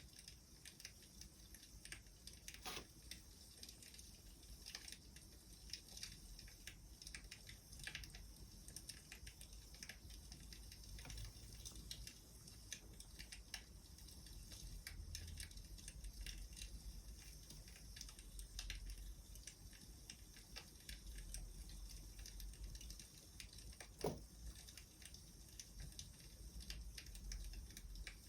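Wood fire crackling softly: scattered small snaps and pops over a low rumble, with one louder pop about 24 seconds in.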